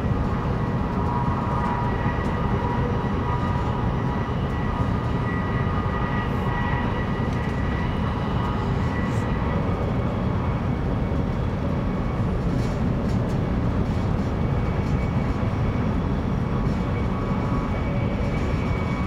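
Interior running noise of a CRH2 high-speed electric multiple unit: a steady rumble of the wheels on the track, with a faint steady high whine.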